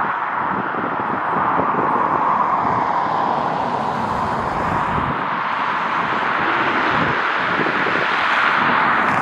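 Jet airliner engines heard as a steady rushing noise that swells slightly toward the end, with wind buffeting the microphone.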